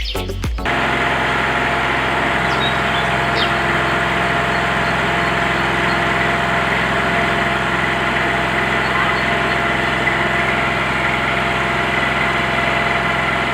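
A steady, unchanging engine-like running sound, like a small engine idling, which starts as background music cuts off about half a second in.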